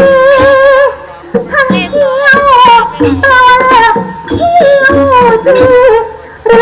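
Music: a singer's wavering, ornamented voice over instrumental accompaniment, dipping briefly between phrases about a second in and again near the end.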